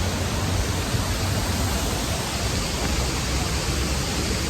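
Steady rushing of a waterfall heard close up from its base, an even unbroken roar of falling water.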